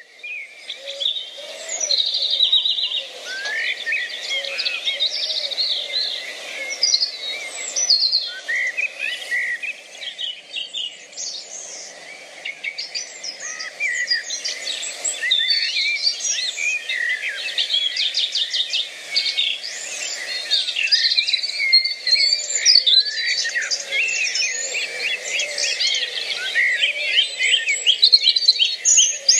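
Several songbirds singing and calling at once: many overlapping chirps, trills and short whistles, one after another throughout.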